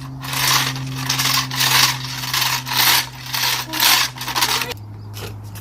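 Henry vacuum cleaner running with a steady motor hum while its nozzle is scrubbed back and forth over the floor, about two rasping strokes a second. Near the end the strokes stop and the motor's hum drops to a lower pitch.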